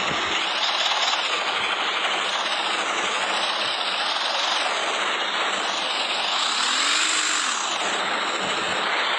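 Tractor engine running with a steady, noisy drone; its pitch rises and falls briefly about two-thirds of the way through.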